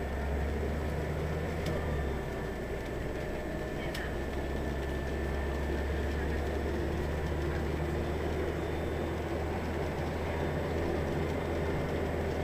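Scania L94UB city bus under way, its rear-mounted diesel engine a steady low drone under road and body noise. The drone shifts slightly about two seconds in.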